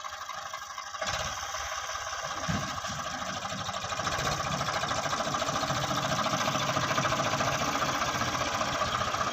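Tractor diesel engine running with a dense, rattly firing beat, getting louder about a second in and again a few seconds later, then holding steady.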